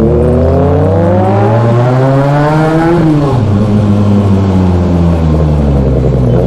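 Benelli 600i inline-four motorcycle engine through an aftermarket Ixill exhaust, heard from the saddle. The note climbs steadily as the bike accelerates, drops sharply about three seconds in as the throttle closes, holds a steady lower note, then begins to rise again at the end.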